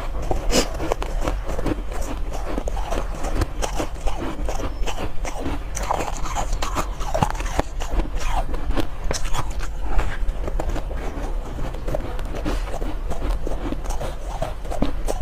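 Soft shaved ice being bitten and chewed close to the microphone: a continuous run of irregular crisp crunches over a low steady hum.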